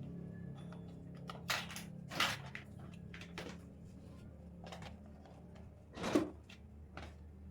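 Scattered light knocks and clicks from shoe-rack parts being handled during assembly, with one louder knock about six seconds in, over a steady low hum.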